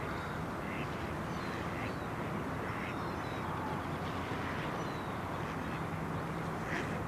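Ducks calling with short notes, about four times, over a steady background rumble.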